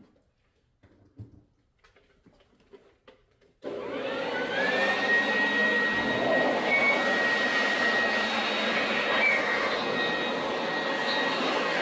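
Faint clicks, then about three and a half seconds in an electric motor switches on: a loud, steady rushing noise with a whine that rises quickly to a steady high pitch and holds.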